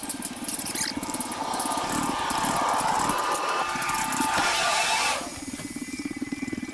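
An engine running steadily, with a louder rushing noise over it from about a second and a half in that stops abruptly about five seconds in.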